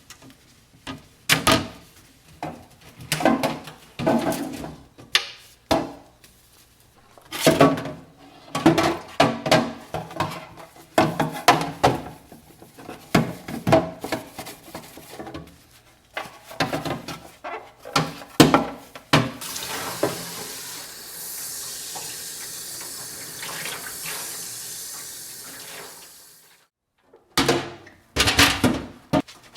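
Washing up at a kitchen sink: repeated knocks and scrubbing of items being handled, then the tap runs steadily for about seven seconds. The tap is shut off and a few more knocks follow.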